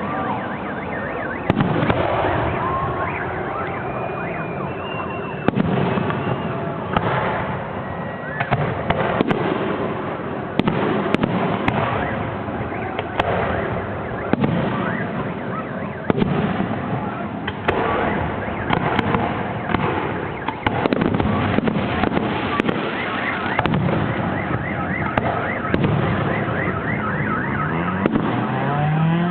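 Fireworks going off in a dense, continuous run of bangs and crackles, with occasional whistling glides. Near the end a siren-like wailing tone that rises and falls joins in.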